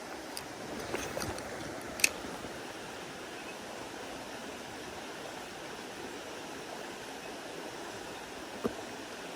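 Mountain stream running steadily, with a few sharp clicks over it: the sharpest about two seconds in and another near the end.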